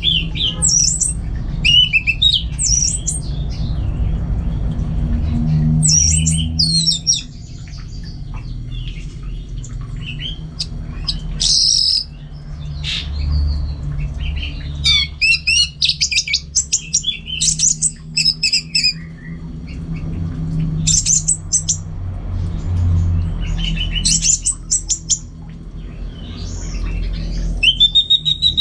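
Orange-headed thrush singing in bursts of quick, varied whistles and harsh chattering notes, a few seconds apart, over a steady low hum.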